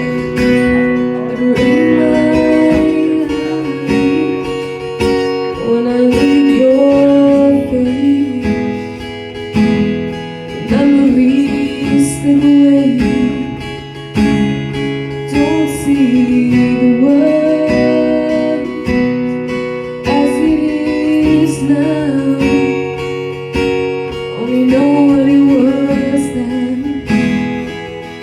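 Acoustic guitar playing a slow song, with a woman singing over it in phrases of a few seconds separated by short pauses.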